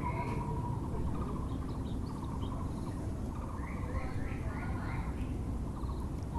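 Birds calling: a Muller's barbet repeats its rapid pulsing call at one steady pitch, and another small bird gives a quick run of falling chirps about midway, over steady low background noise.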